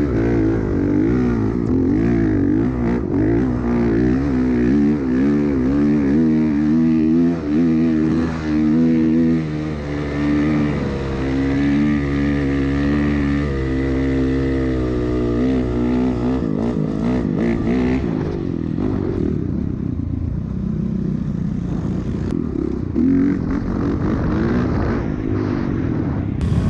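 Dirt bike engine at full throttle in a sand drag race, its pitch climbing and dropping again and again as it shifts through the gears.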